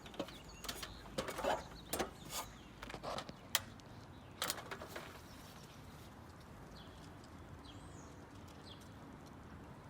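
A run of sharp clicks and knocks through the first five seconds, the sharpest about three and a half seconds in, then a faint steady background with a few short high chirps.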